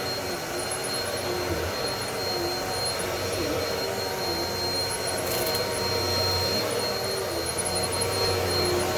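Bissell PowerLifter Pet bagless upright vacuum cleaner running steadily on carpet, with a constant high whine. The motor's pitch sags briefly every second or so.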